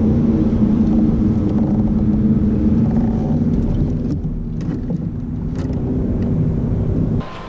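Steady low engine drone with a steady hum in it, with a few light clicks in the middle; it cuts off abruptly near the end.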